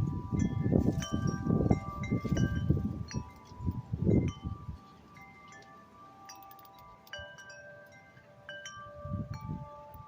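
Wind chimes ringing in gusty wind, with many overlapping struck notes that each hang on. Wind buffets the microphone with a low rumble through the first half and again briefly near the end.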